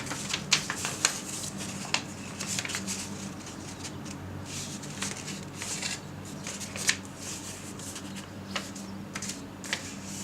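Square sheet of paper being folded and creased by hand: rustling with sharp crisp crackles, the loudest in the first two seconds and again about seven seconds in. A faint low steady hum runs underneath.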